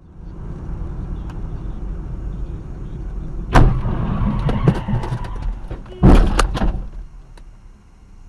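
Steady road and engine noise from a moving car, broken by a sharp bang about three and a half seconds in and a heavier cluster of bangs about six seconds in: a car collision, then fading out.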